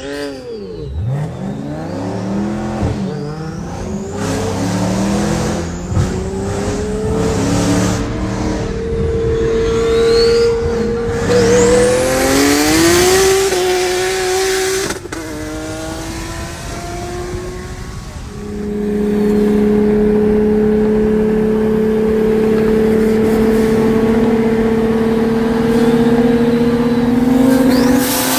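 Car engines at full throttle in a race: engine pitch climbs and drops back several times through upshifts, then after a break holds a long steady high-rev drone that starts climbing again near the end.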